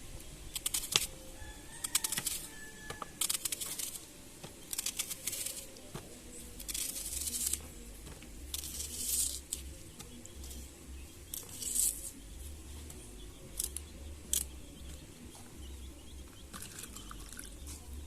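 Knife cutting onion and vegetables by hand: a run of short scraping slices with a few sharp clicks, at irregular intervals.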